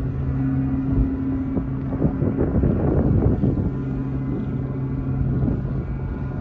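Vietnamese kite flutes, a double set of 110 mm aluminium-tube cồng flutes on a 5 m kite, droning in the wind: a deep steady hum with a higher tone held over it. Wind buffets the microphone in the middle.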